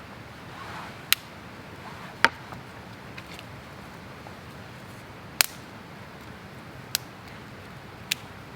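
Wood campfire popping: five sharp, irregular snaps over a steady low hiss.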